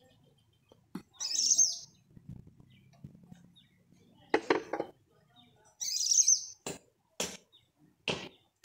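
A bird chirping in two short bouts, over knocks and a soft rubbing from a wooden rolling pin rolling chapati dough on a floured board.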